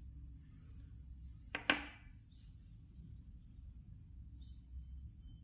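Small birds chirping faintly in the background in short, repeated high chirps, with two sharp clicks close together about a second and a half in.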